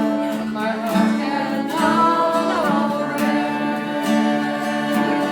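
Music: a strummed acoustic guitar with a voice singing over it.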